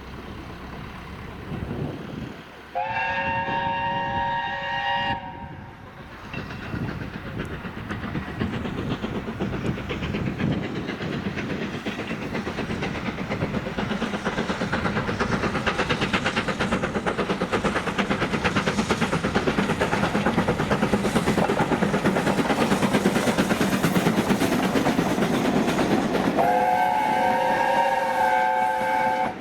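Heritage train sounding a whistle in a blast of about two seconds, then approaching and passing with a rapid rhythmic beat that grows louder. A second whistle blast comes near the end.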